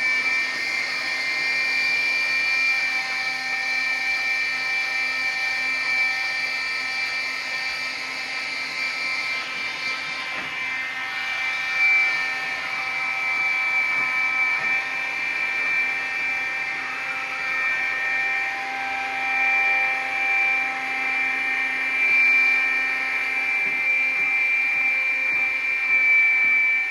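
iRobot Scooba 390 floor-scrubbing robot running, its motors giving a steady high-pitched whine that swells a little now and then.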